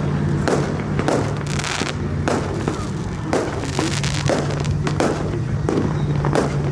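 A truck engine held at steady high revs, as in a burnout, with sharp cracks about one to two times a second that sound like exhaust pops or backfires.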